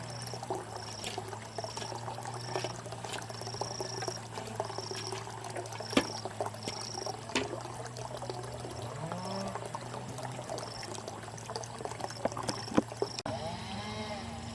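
Water pouring and trickling, as from a bamboo pipe, with short high chirps repeating throughout and a few sharp knocks.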